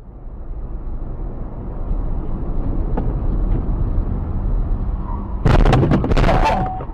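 Steady low road and engine rumble of a moving car, then about five and a half seconds in a loud, harsh burst of impact noise lasting about a second, typical of a vehicle collision.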